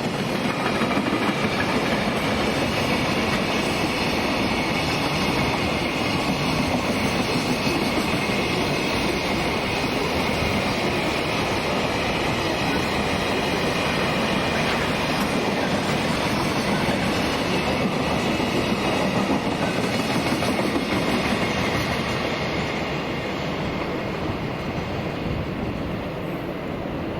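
Electric train running on the rails: steady wheel-and-track noise with clickety-clack over the rail joints, easing off a little near the end.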